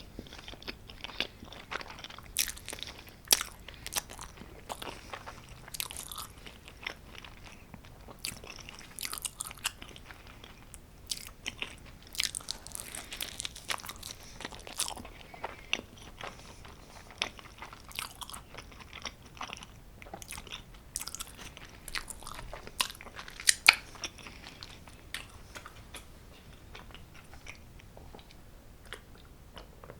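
Close-miked chewing and biting of homemade pizza: many small mouth clicks and crunches, thinning out near the end.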